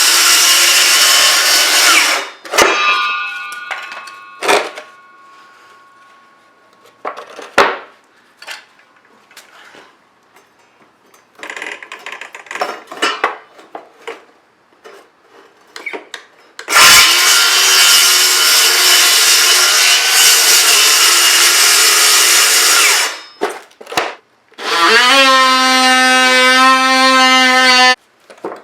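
Power tool cutting through 3/4-inch plywood in bursts, cutting out the router's slot from a pilot hole. There is a run of about two seconds at the start and a longer run of about six seconds in the middle. Near the end a motor rises in pitch and holds steady for about three seconds. Quieter clicks and knocks come between the runs.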